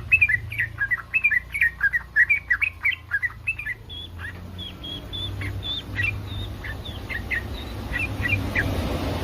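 Sooty-headed bulbul (trucukan) singing, a bird in breeding condition: a fast run of short chirping notes for about three and a half seconds, then higher, sparser notes. A low rumble rises in the background through the second half.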